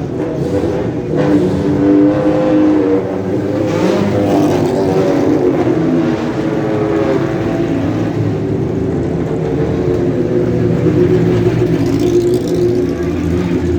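Sports car engines running loud and revving, with the engine note climbing in pitch about four seconds in and again near the end.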